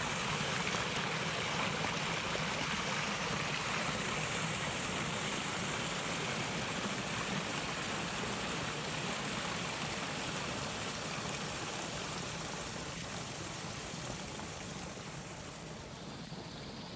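Steady rush of flowing stream water, growing fainter over the last few seconds.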